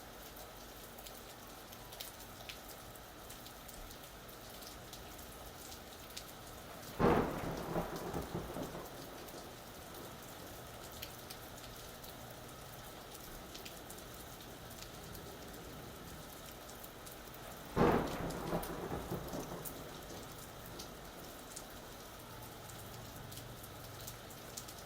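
Steady rain falling, with scattered drops ticking close by. Two sharp claps of thunder break in, about 7 and 18 seconds in, each crackling and rumbling away over a second or two.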